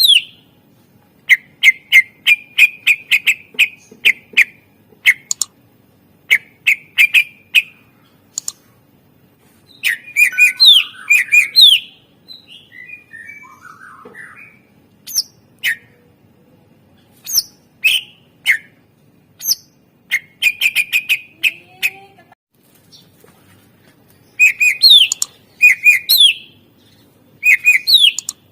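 Green leafbird (cucak ijo) singing loudly: bursts of rapid, sharp chattering notes and short whistles, in phrases broken by brief pauses.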